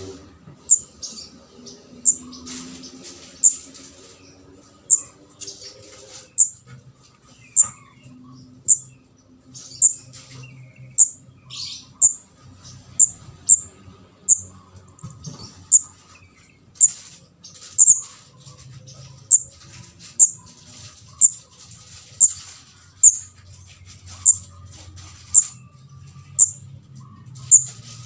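Short, sharp, high-pitched chip calls of a fledgling kemade jawa (the red-headed 'ndas abang'), repeated about once a second. This is a recorded lure call used to attract birds for catching.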